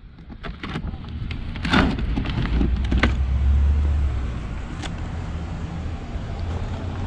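Motorcycle engine running with a steady low rumble that swells for a couple of seconds just before the middle, with a few sharp clicks and knocks over it.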